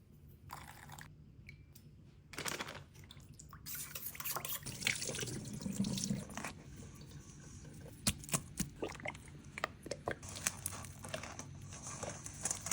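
Water running from a kitchen tap, starting about two seconds in, with scattered light clicks and knocks of things being handled under the stream.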